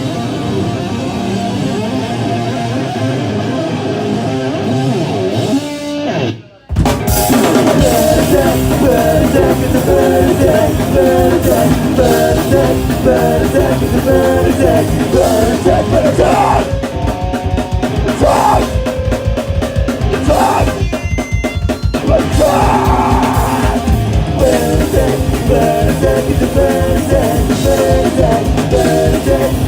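Punk rock band playing live: fast drums, distorted electric guitars and shouted singing. The music drops out for a split second about six seconds in, then the full band crashes back in.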